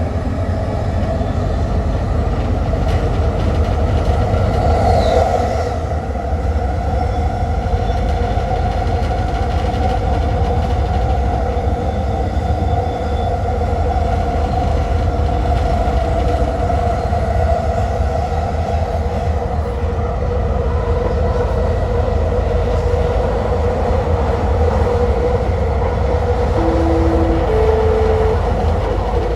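Sky train running, heard from inside the rear car: a steady low rumble with a sustained tonal hum from the train. Near the end two short tones sound, the second higher than the first.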